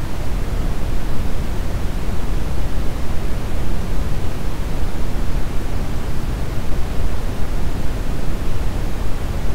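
Steady brown noise: a constant, deep rushing hiss, strongest in the low end, with no change or events.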